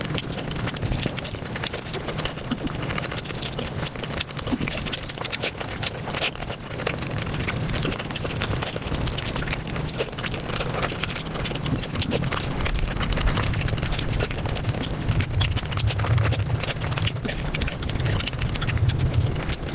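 Close-miked chewing, smacking and crunching of a person eating, sped up five times into a dense, continuous patter of quick clicks and wet mouth sounds.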